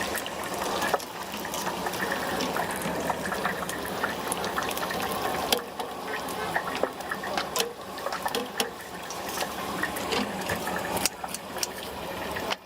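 Stinky tofu deep-frying in hot oil: a steady sizzle with many small crackles and pops throughout.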